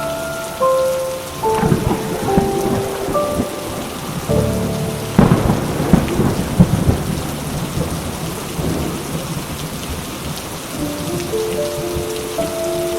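Steady rain with rolling thunder: a first rumble about two seconds in and a louder crack and rumble about five seconds in that dies away over a couple of seconds. Soft, slow held musical notes sound over the rain near the start and again near the end.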